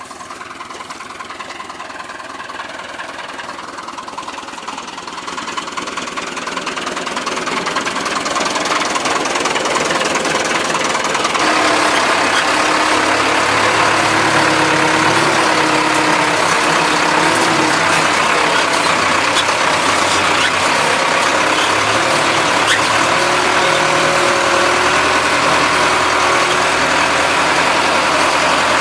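Massey Ferguson tractor engine running in the field. It grows steadily louder over about the first twelve seconds, then runs on steady and loud.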